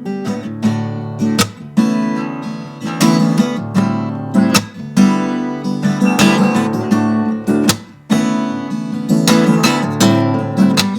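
Solo acoustic guitar playing a fingerpicked and strummed instrumental passage of plucked chords, with a short drop in level just before two-thirds of the way through.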